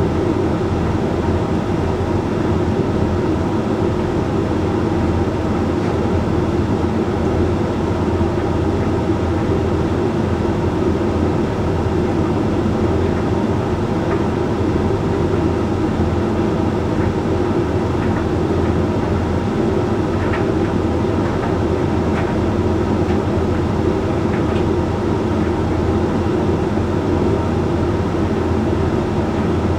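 Hoover Link X Care HLX C10DRGR condenser tumble dryer running mid-cycle on its Whites programme: a steady hum and rumble of the turning drum and fan. A few faint ticks come about two-thirds of the way through.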